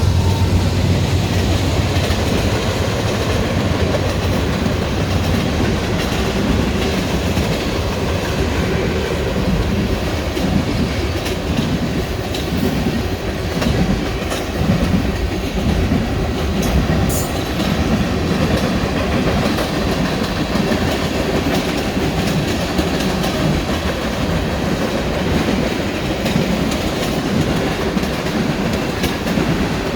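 Freight train rolling past at close range: a steady clatter of wheels over the rail joints. A low locomotive engine drone from the mid-train DPUs fades away in the first couple of seconds.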